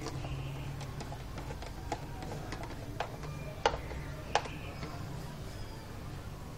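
Ford Sierra XR6i engine idling with a steady low hum, with sharp irregular clicks about once a second over it.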